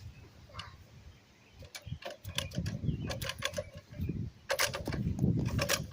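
A quick run of light clicks and rattles, thickest in the second half, over a low rumble.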